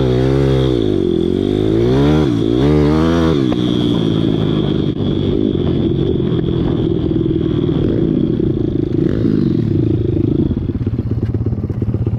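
Pit bike's small single-cylinder engine revving up and down for the first few seconds, then running steadier at lower revs.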